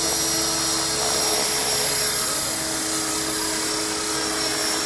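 Align T-Rex 500 electric RC helicopter in flight: a steady whine from its motor and rotor blades, with wind noise on the microphone.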